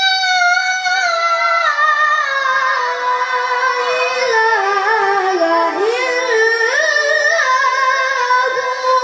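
A child's high voice chanting Qur'anic recitation in a melodic style, holding long notes and winding through ornamented turns in pitch.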